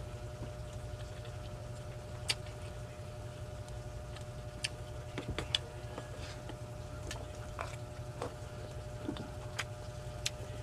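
Close-miked eating sounds: chewing a mouthful of rice with sardines, with about ten small sharp clicks scattered through it, over a steady low hum.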